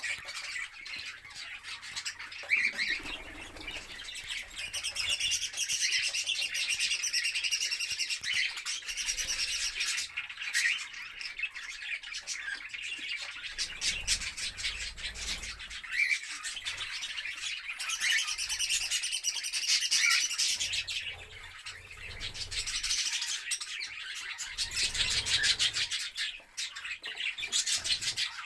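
Caged pet birds chirping and twittering continuously, many calls overlapping.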